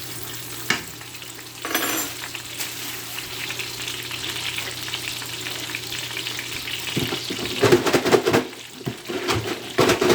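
Hot-Cheetos-crusted chicken deep-frying in hot oil with a steady sizzle. There are a couple of knocks of a utensil against the pan near the start, and a burst of clattering from about two-thirds of the way in as the pieces are moved and shaken in the pan.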